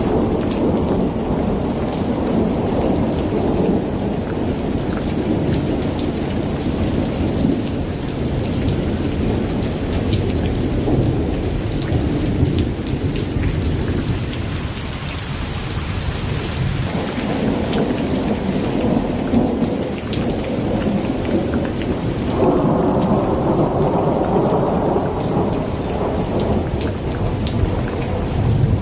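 Thunderstorm: rain pattering over a low rolling thunder rumble that swells and eases, building again about three quarters of the way through.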